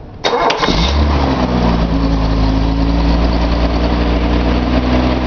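Nissan L28 2.8-litre straight-six with a Maxima head, cold, cranking only briefly before catching and settling into a steady idle: a quick, clean start, the sign of a healthy engine.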